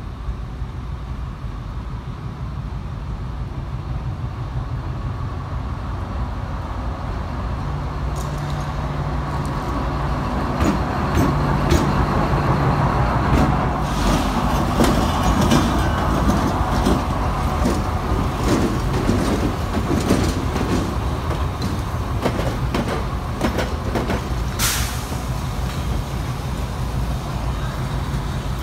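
Diesel locomotive of a passenger train, its engine drone growing louder as it comes up and passes close, then the wheels of the locomotive and carriages knocking rhythmically over rail joints and switch track. A brief sharp hiss sounds late on.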